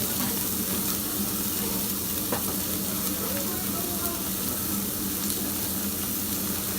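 Meat sizzling on a yakiniku tabletop grill: a steady frying hiss with scattered faint pops, over a low steady hum.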